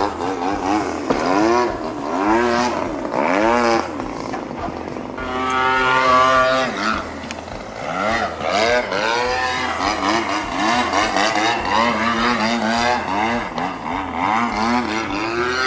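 The 26cc two-stroke gasoline engine of an RC aerobatic airplane running at high revs in flight. Its pitch sweeps up and down over and over as the plane passes and the throttle changes, and holds a steady high note for a couple of seconds near the middle.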